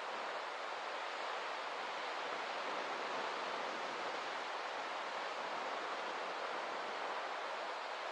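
Steady, even rush of water, with no swells or breaks.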